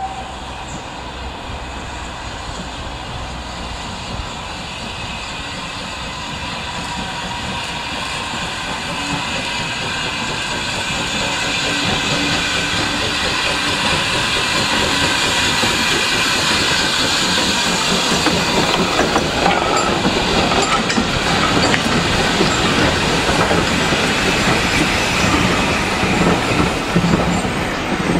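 Steam-hauled train running past on the rails. Its rumble and wheel clatter over the rail joints build steadily over the first half and stay loud to the end.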